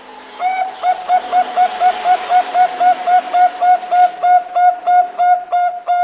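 Zebra dove (perkutut bangkok) cooing a fast run of short, clipped notes at about four a second, starting about half a second in, over a steady background hiss.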